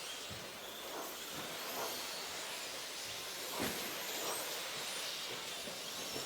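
Modified-class electric RC trucks racing on the track: a steady hiss of motors and tyres with faint high-pitched whines, and a few short knocks, the loudest about three and a half seconds in.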